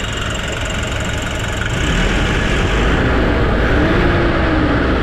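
Nissan NV350's turbodiesel engine running, getting louder about two seconds in. Its idle no longer hunts up and down, now that the suction control valve has been replaced and the EGR and intake manifold cleaned.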